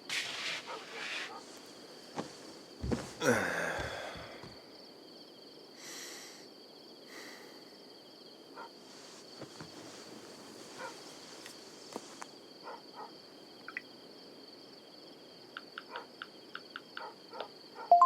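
Steady chirring of crickets, with scattered light clicks and knocks. About three seconds in there is a louder sound that sweeps downward in pitch, and a short ding comes right at the end.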